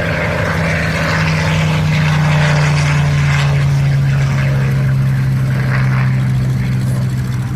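Bell P-63 Kingcobra's Allison V-12 engine running loud at takeoff power, a steady propeller-plane drone whose pitch drifts slowly downward.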